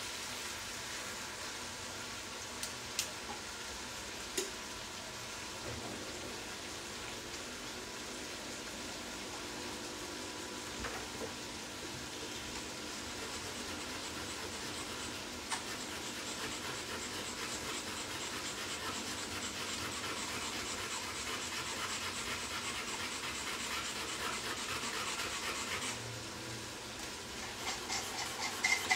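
Lamb offal frying in a pan on lowered heat, a steady sizzle that grows a little stronger in the second half. Metal tongs click against the pan a few times in the first few seconds.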